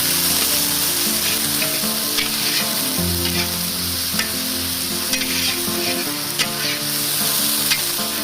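Masala sizzling as it fries in oil in a pan, stirred with a spatula, with scattered sharp scraping clicks.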